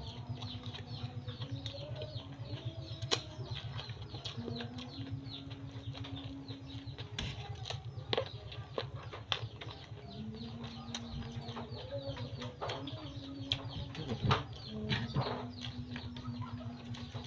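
Close-up eating sounds: chewing, crunching and lip-smacking as rice and raw eggplant are eaten by hand, with many short irregular clicks. Under them runs a steady low fluttering hum with a faint wavering tone.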